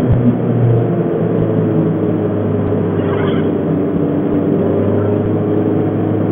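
Peugeot 309 GTI 16V's 1.9-litre 16-valve four-cylinder engine running steadily at a constant speed, its pitch holding level.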